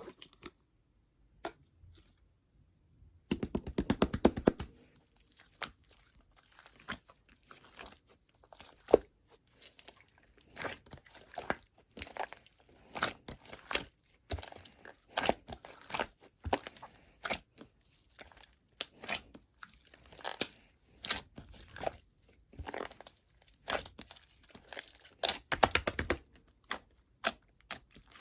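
Hands squishing, poking and stretching red whipped slime whose whipped texture has gone flat, making irregular crackles and pops that start about three seconds in.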